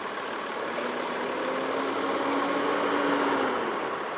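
Intercity bus diesel engine running close by at low speed, with a steady hum that swells to its loudest about three seconds in and then eases off.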